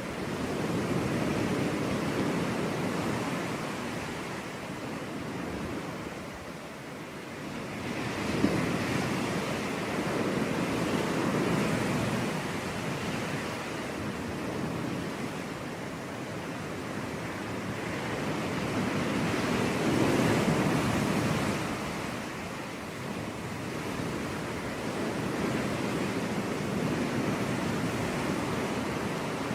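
Waves breaking on a beach, the surf swelling and ebbing in slow surges every several seconds, with a brief click about eight and a half seconds in.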